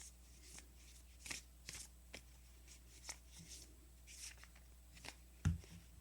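Oracle cards being shuffled and handled: faint papery swishes and flicks, with a soft thump near the end as the cards meet the table.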